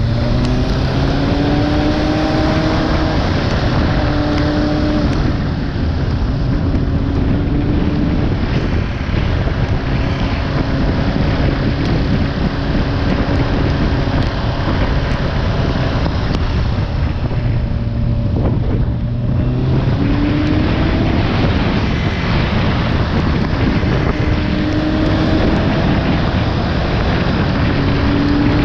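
Motorcycle engine running under way, its pitch rising as it accelerates three times, with steady wind noise on the microphone.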